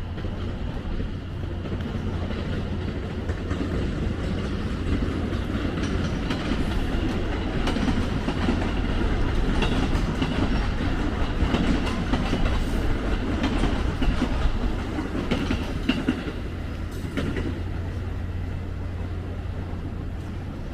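A train passing: a rumble with wheel clatter that grows louder through the middle and eases off near the end.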